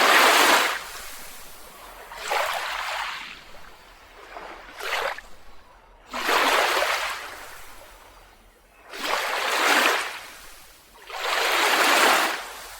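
Small ocean waves washing onto a beach: about six surges of surf noise, one every two to three seconds, each swelling and then falling away.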